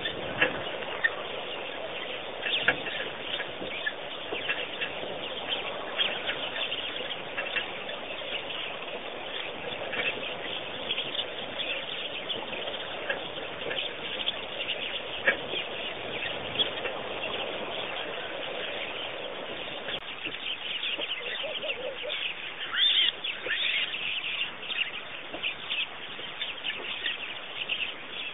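Many small birds chirping, a busy chorus of short, high calls that thickens about three quarters of the way in.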